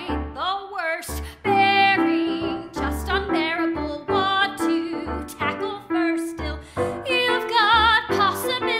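A woman singing a Broadway show tune in a trained voice with vibrato, over instrumental accompaniment.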